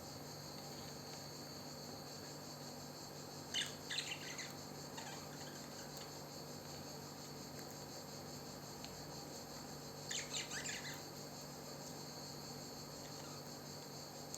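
Two short bursts of chirping from a pet parrot, one about three and a half seconds in and another about ten seconds in, over a steady high chorus of crickets.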